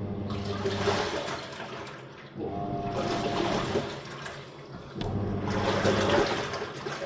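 Top-loading washing machine agitating a load: its motor drives the pulsator in surges about every two and a half seconds, each with a low hum and a swish of sloshing water that fades before the next stroke.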